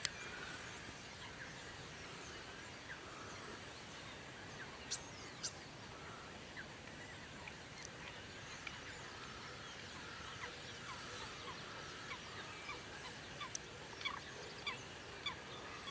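Faint open-air wetland ambience with scattered short bird chirps and whistles from distant birds, a few sharper calls standing out about five seconds in and again near the end.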